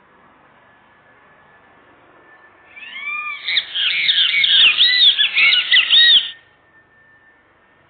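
A bird calling in a loud run of quick, squawky arched notes, about a second in from three seconds and stopping after roughly three and a half seconds, over a faint steady high tone.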